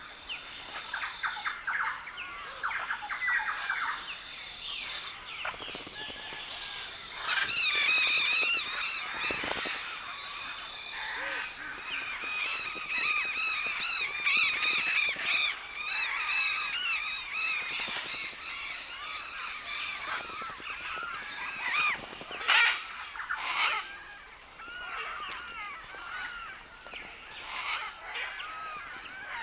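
A large mixed flock of macaws and parrots calling together, many harsh overlapping squawks at once. It swells loudest about a quarter of the way in, with one sharp loud call a little past two-thirds of the way through.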